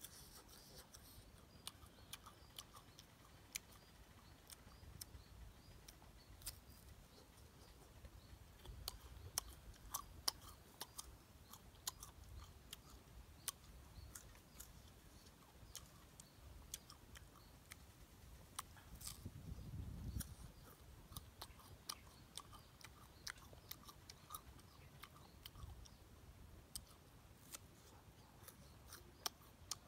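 Fresh guava being bitten and chewed close to the microphone: irregular crisp crunches and wet mouth clicks.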